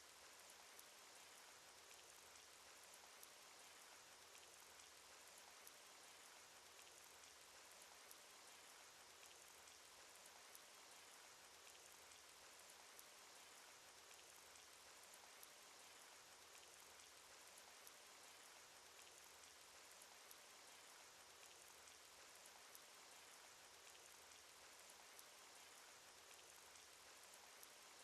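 Cartoon rain sound effect: a faint, steady patter of rain with scattered individual drop ticks.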